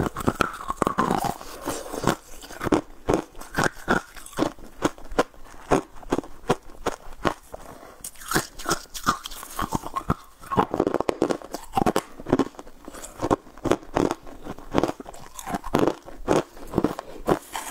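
Close-up chewing and biting of sugar-coated jelly candies, heard through a clip-on microphone: many quick, irregular crunches, several a second, throughout.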